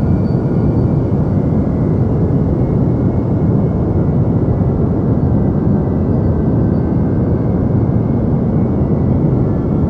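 Deep white noise for sleep: a steady, unchanging rushing noise, weighted toward the low end like a dull rumble.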